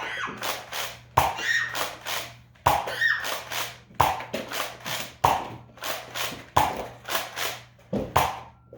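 Nerf blaster being fired again and again: a sharp snap about every second and a half, each followed by a short rattle.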